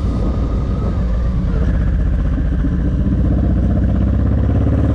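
Honda VTX1800's 1800cc V-twin engine with aftermarket Vance & Hines pipes, running steadily while riding. The pitch rises slightly near the end.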